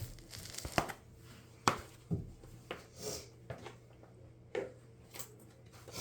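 Scattered light knocks and clicks, irregularly spaced, with a brief hiss about three seconds in: handling noises in a small room.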